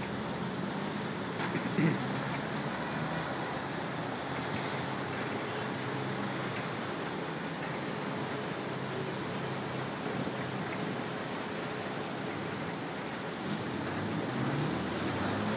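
An engine idling steadily amid street traffic noise, with a single short knock about two seconds in.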